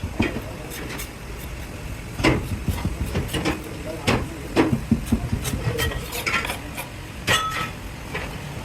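Irregular metal clanks and knocks, about half a dozen, over a steady low hum of workshop machinery.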